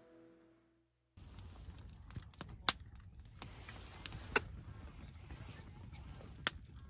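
Background music fades out, then after a moment of silence comes a quiet outdoor background with a few scattered sharp clicks and taps.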